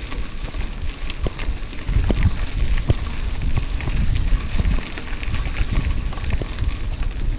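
Wind rumbling on the microphone of a camera on a moving bicycle, with many irregular crackles and clicks.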